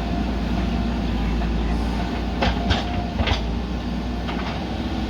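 JCB backhoe loader's diesel engine running steadily, with a quick run of four or five sharp metallic clanks about halfway through.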